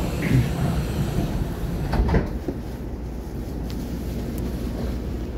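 Inside an electric train as it pulls away from the platform: a steady low rumble, with a couple of clunks about two seconds in.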